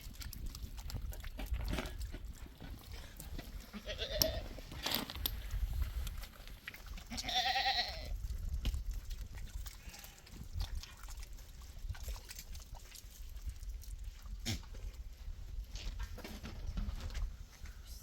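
Small livestock bleating twice, about four seconds in and again a few seconds later, each a short wavering call, over a steady low rumble.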